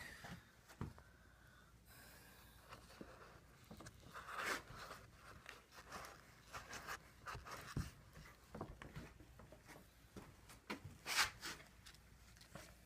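Quiet handling noises from repair work: scattered light taps and clicks, with a louder scrape or rustle about four seconds in and another near eleven seconds.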